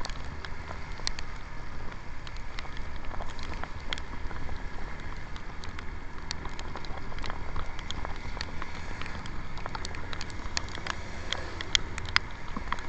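Motor scooter ridden through rain: a steady rumble of wind and engine, with raindrops ticking irregularly on the handlebar-mounted camera and two louder ticks near the end.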